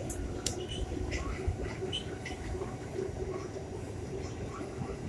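New York City Subway A train car running at speed: a steady low rumble of wheels on track, with scattered light clicks and brief high squeaks.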